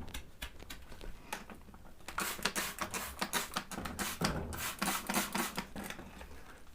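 Brush scrubbing solvent-soaked grime off a vintage sewing machine: a rapid, irregular run of short scratchy strokes and clicks, busiest from about two seconds in until near the end.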